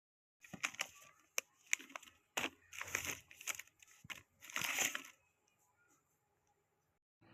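Crinkling and clicking of something handled close to the microphone, in a string of short sharp bursts that stops about five seconds in.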